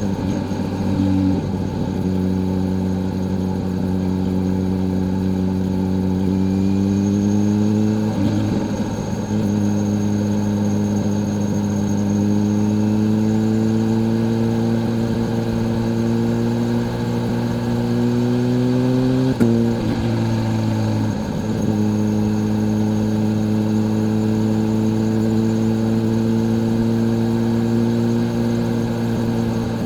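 Kawasaki Z H2's supercharged inline-four engine pulling under way. Its pitch climbs slowly and drops sharply with gear changes about eight seconds in and again near twenty seconds in, then holds nearly steady at cruise.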